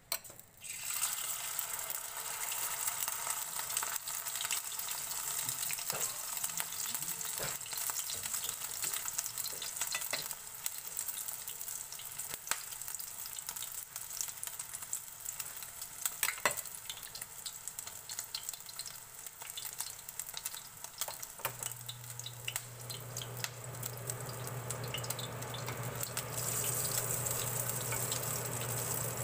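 Okoy batter of small shrimp sizzling and crackling in hot oil in a stainless steel pan, with many sharp pops. The frying starts suddenly as the ladleful goes into the oil about half a second in. A low steady hum joins about two-thirds of the way through.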